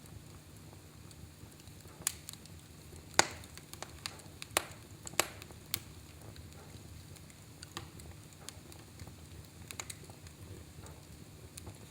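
Wood fire burning in a fireplace: irregular sharp crackles and pops, several close together in the first half and a few more near the end, over a low steady background.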